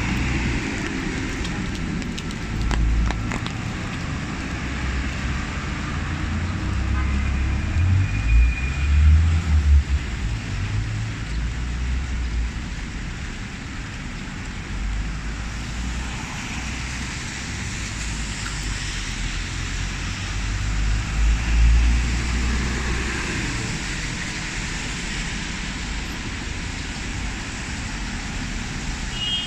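Busy city street in the rain: a steady hiss of rain mixed with passing road traffic, and heavy low rumbles that swell twice, about a third of the way in and again past two-thirds.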